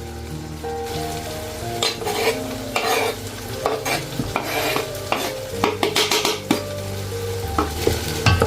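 Food sizzling in a pan as it is stirred, with a spoon scraping and knocking against the pan several times, over soft background music.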